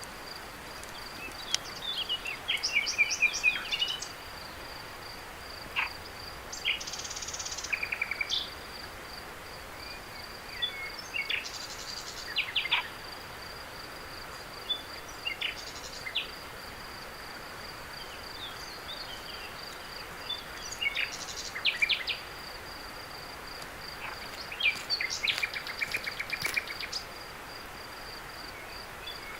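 Night insect chorus: a cricket's steady, evenly pulsing high trill runs throughout, with short bursts of rapid chirping calls every few seconds over a soft hiss.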